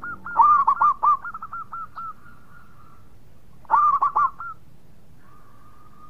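Zebra doves (perkutut) cooing: a rapid run of short, clipped notes, two series overlapping at slightly different pitches, then a second shorter run about halfway through. A faint steady tone follows near the end.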